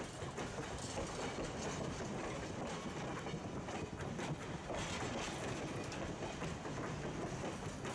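Passenger coaches rolling past close by, a steady rumble of steel wheels on the rails with intermittent clicks and clatter.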